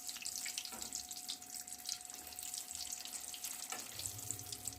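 Batter-dipped tomatoes deep-frying in hot oil: a soft, steady sizzle with fine crackling.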